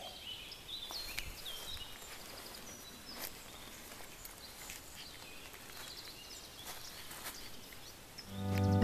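Quiet woodland ambience with scattered birdsong chirps and short trills, and a few light clicks and rustles close by. Music fades in near the end.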